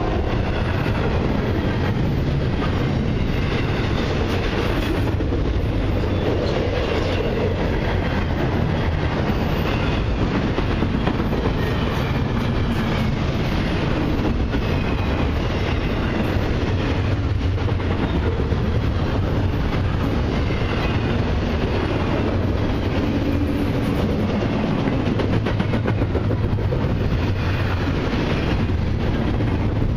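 A CN double-stack intermodal freight train's well cars rolling past close by: a steady, loud rumble of steel wheels on rail, with wheels clicking over the rail joints.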